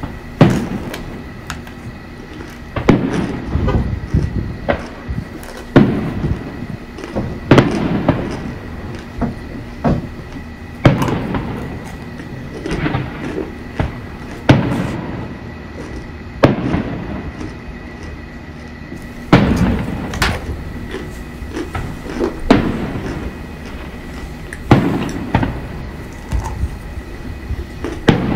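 Aerial fireworks bursting: a string of booms every second or two, each with a short echoing tail.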